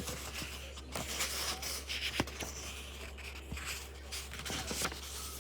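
Room noise with a steady low hum, broken by scattered light clicks and soft rustling.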